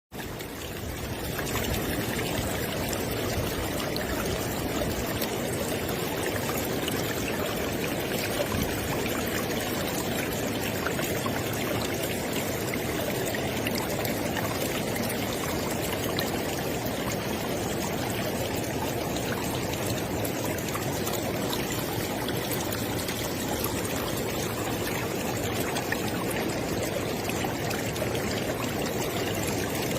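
River water flowing steadily over rocks, a constant rushing with trickling splashes, fading in over the first second or so.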